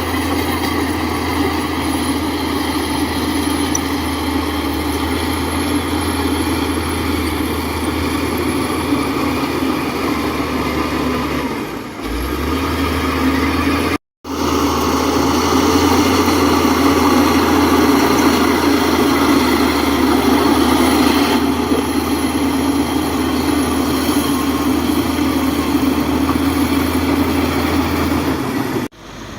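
Heavy diesel engine of earthmoving machinery running steadily. Its pitch dips briefly a little before halfway, then the sound drops out for an instant and carries on slightly louder.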